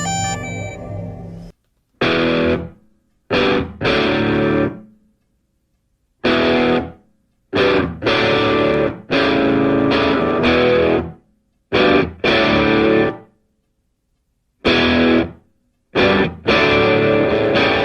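Distorted electric guitar music: chords played in separate bursts, each cut off into silence.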